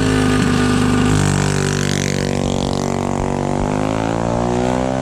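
Mini bike engine running hard, its pitch shifting about a second in and wavering after that.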